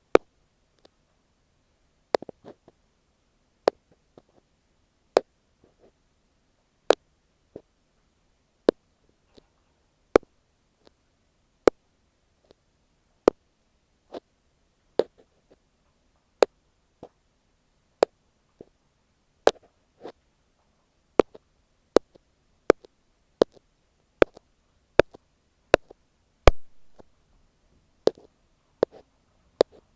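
Ear pick tapping on an earphone microphone: single sharp, dry taps, about one every second and a half at first and coming faster after about twenty seconds.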